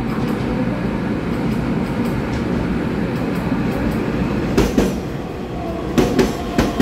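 Taiwan Railways EMU3000 electric express train running into the station platform: a steady rumble of wheels on rails, with a few sharp clacks from the wheels about two-thirds of the way through and again near the end.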